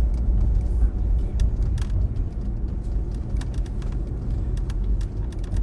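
Car being driven, heard from inside the cabin: a steady low road and engine rumble, with a few faint clicks.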